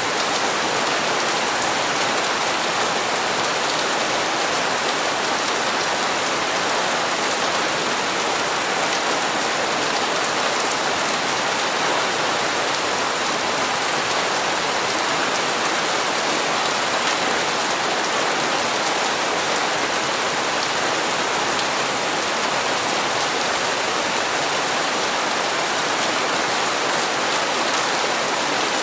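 Steady rain falling on hard surfaces, an even hiss of drops with no breaks or changes.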